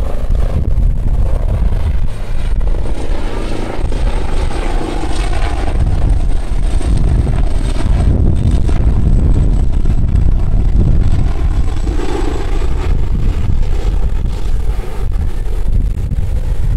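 Street ambience dominated by a steady, loud low rumble of vehicle traffic, with a faint high whine in the middle stretch.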